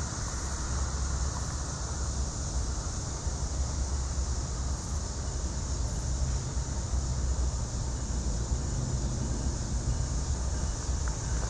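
A train rolling past, a steady low rumble.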